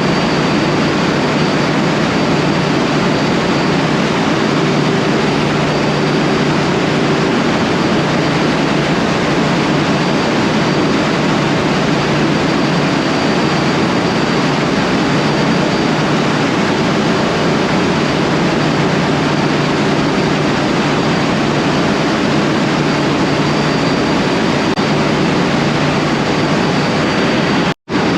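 Ship's engine-room machinery running steadily: a loud, dense mechanical din with a constant low hum. It cuts out for an instant just before the end.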